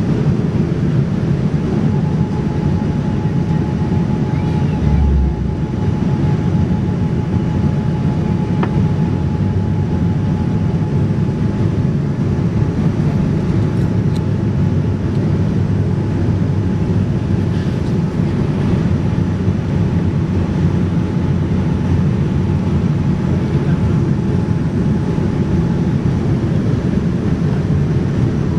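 Boeing 787-9 airliner heard from inside the cabin: a loud, steady low rumble of engine and airflow noise, with a faint steady whine through most of it and a brief low thump about five seconds in.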